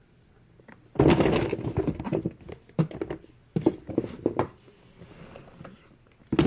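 Plastic fidget toys clattering and knocking together as they are handled and moved around, with a dense jumble of knocks about a second in and scattered knocks after.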